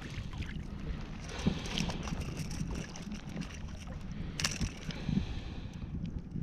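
Shallow bay water splashing and sloshing around a wading angler, with wind on the microphone and a sharper splash about four and a half seconds in.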